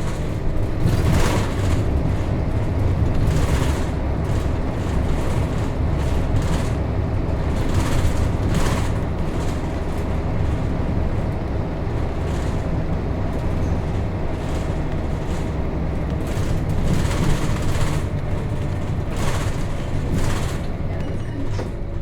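Nissan Diesel KC-RM211GSN route bus under way, heard from inside the cabin: its FE6 inline-six diesel running steadily, with brief rattles or knocks every few seconds.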